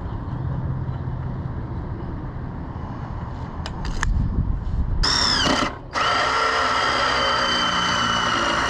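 Electric drill drilling a hole: about five seconds in it spins up in a short burst, stops for a moment, then runs at a steady whine.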